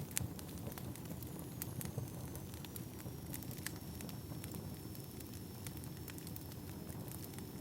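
Wood fire burning: irregular sharp crackles and pops over a steady low rumble of the burning logs.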